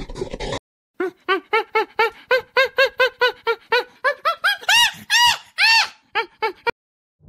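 A primate calling: a quick run of hoots, about four a second, that climb in pitch and grow louder into a few long, high shrieks about five seconds in, then stop short. Rough panting grunts come at the very start, before a brief gap.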